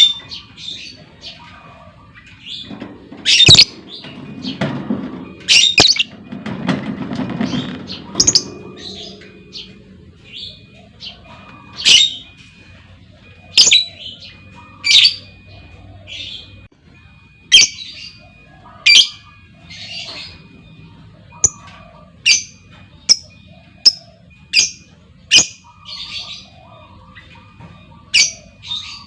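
Lovebird calls: short, sharp, high-pitched squawks repeated about once every second or two, with a low rumbling noise underneath from about three to eight seconds in.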